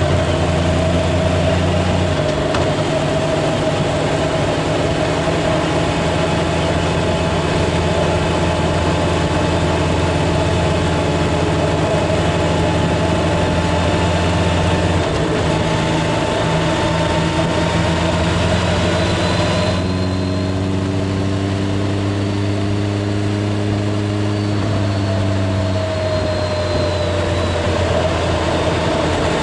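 Freshly restored Kawasaki W1 air-cooled vertical-twin engine running steadily; its note changes in steps a few times.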